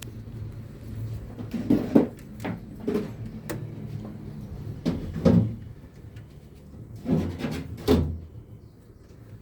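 Irregular knocks and scrapes, about six in all, the loudest about two seconds in and near the end, over a low steady hum.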